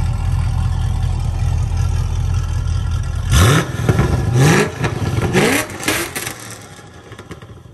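Chevy SS's 6.2-litre LS3 V8, breathing through long-tube headers and stock mufflers, idling with a deep rumble, then pulling away hard about three seconds in, its pitch climbing three times as it runs up through the gears and fading into the distance.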